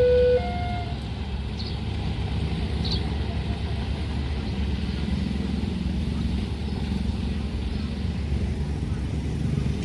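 A level-crossing warning alarm alternates between two tones, low then high, and stops under a second in. A steady low rumble of vehicles follows.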